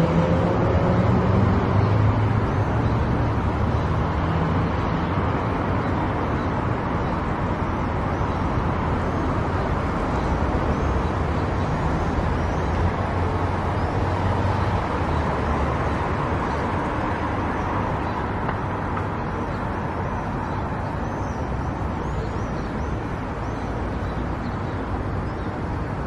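Steady road and tyre noise of a car driving at speed on a highway, with a low engine hum in the first half that fades out.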